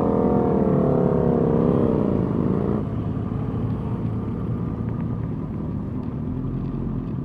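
Motorcycle engine running, its pitch wavering slightly up and down. The engine note drops out about three seconds in, leaving a steady low rumble of engine and road noise.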